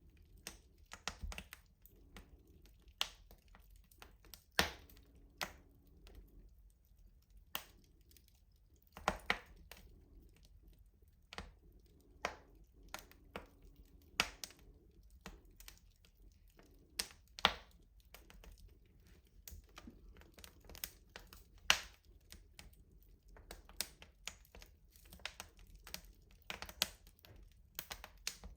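Wood fire crackling in a rustic stove: irregular sharp snaps and pops, a few of them louder than the rest.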